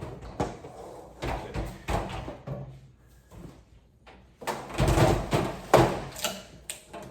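Knocks, clatter and rustling from parts and packaging of a new cooking appliance being handled and unpacked, with the loudest run of bangs about five to six and a half seconds in.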